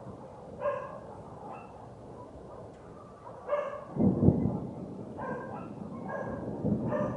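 A dog barking again and again in short barks. About halfway through, a deep, loud rumble of rolling thunder begins under the barking and keeps going.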